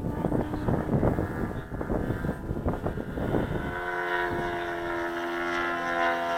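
Saito 180 four-stroke glow engine of an RC Mew Gull running in flight, partly masked by gusty wind on the microphone for the first few seconds. From a little past halfway the engine's tone comes through clearly and steadily, its pitch slowly rising.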